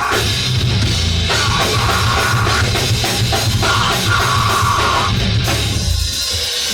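Rock band playing live with a drum kit, loud and dense; the song stops about six seconds in.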